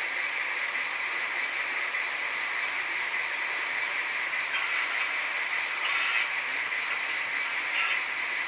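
H0-scale model trains running on a layout: a steady whir of small electric motors and metal wheels rolling on the rails, with a few brief louder patches after about halfway.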